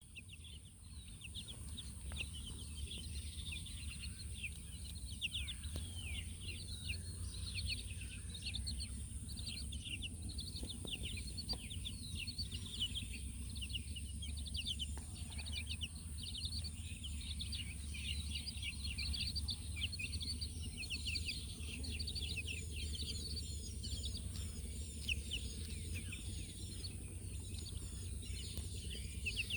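A group of young chicks peeping nonstop, many short, high, falling cheeps overlapping, over a steady low hum.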